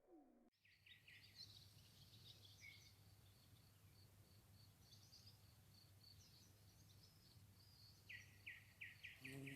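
Faint birdsong: high chirps and a string of evenly spaced short notes, then near the end a quick run of about six lower notes, over a steady low hum.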